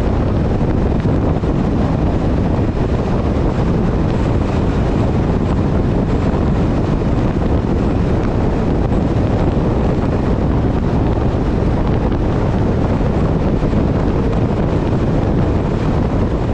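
Steady wind rush on a motorcycle-mounted action camera's microphone at riding speed, mixed with a Harley-Davidson motorcycle engine running.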